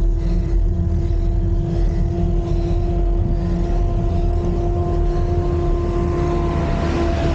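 Wind rumbling on a camera microphone while riding a road bike, with a steady droning hum that shifts slightly near the end.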